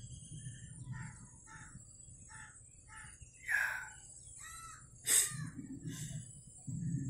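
Birds calling: a run of short repeated calls about twice a second, with a louder falling call about three and a half seconds in, over a steady high-pitched drone. A sharp click comes just after five seconds, and low rumbling bumps follow near the end.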